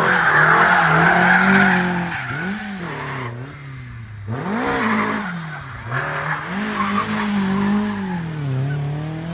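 Rally car engines revving hard through corners, the pitch rising and falling repeatedly with throttle lifts and gearshifts, with tyre squeal and skidding as the cars slide. The sound breaks off abruptly a few times between short passes.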